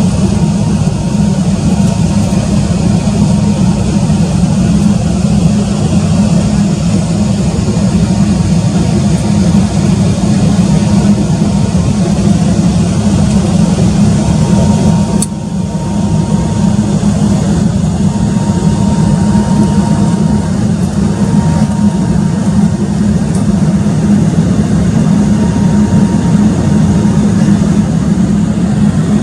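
Steady cabin noise inside an Embraer 195-E2 airliner in flight: its geared turbofan engines and airflow make a loud, even low rumble. A faint high tone comes and goes over it.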